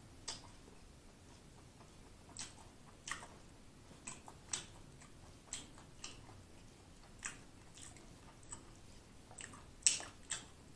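Close-up chewing of a mouthful of fried chicken sandwich: scattered short mouth clicks and smacks, about a dozen, the loudest near the end.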